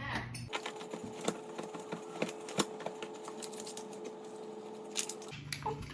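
Irregular sharp clicks and taps over a steady faint hum.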